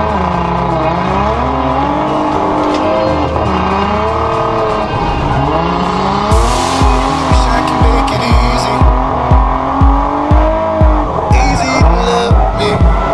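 Dance-music soundtrack mixed with drift-car engine revving and tyre squeal; a steady kick-drum beat of about two thumps a second comes in about six seconds in.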